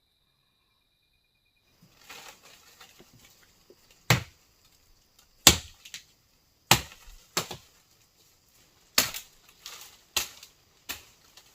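Wood being chopped: about eight sharp blows at an uneven pace of roughly one a second, with light crackling of wood and debris between them.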